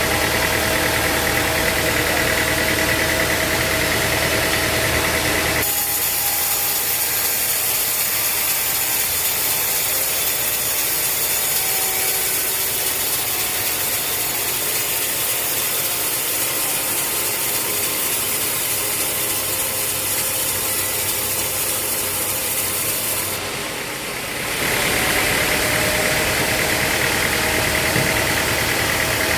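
Sawmill machinery running: a steady engine with a loud high hiss over most of the middle stretch. The hiss starts and stops abruptly.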